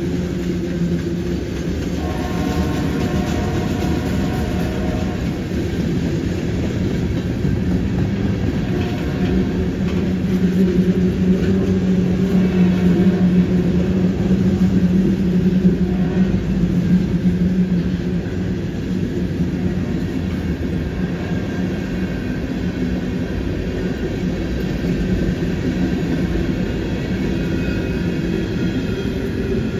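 Freight cars of a long CN freight train rolling past on a curve: a steady rumble of steel wheels on rail, swelling somewhat louder in the middle for several seconds.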